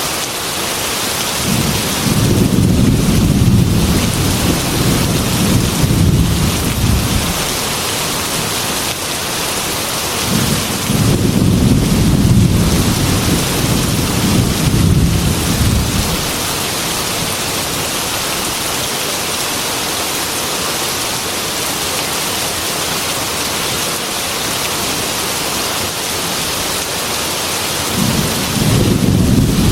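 Heavy rain drumming steadily on a metal roof, with rolling thunder rumbling three times: a few seconds in, again about ten seconds in, and once more near the end.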